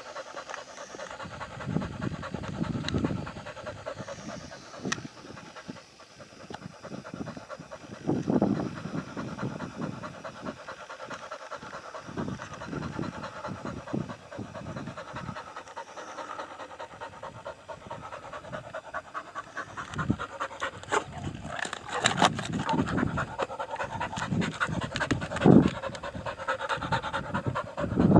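Pigs grunting and chewing while they feed: a run of short, rough, low grunts with crunching, getting louder and busier in the last third.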